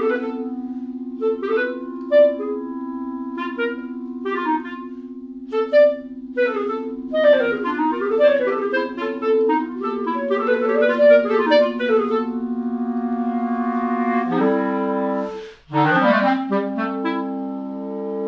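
Clarinet playing quick, short chirping figures over a long-held low tone. About fourteen seconds in the held pitches change, with a brief break soon after.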